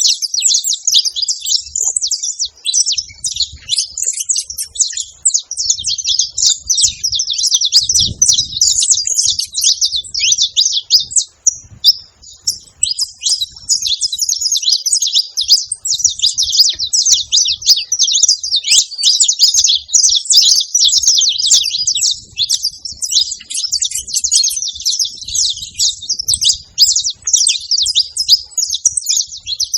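Saffron finch (canário-da-terra) singing: a fast, unbroken run of high chirps and trills, pausing briefly about twelve seconds in before carrying on.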